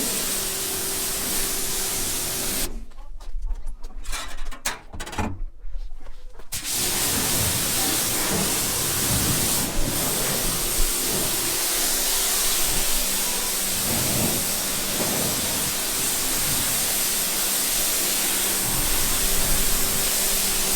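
Steady hissing spray of water, stopping and starting several times between about three and six seconds in, then running on steadily.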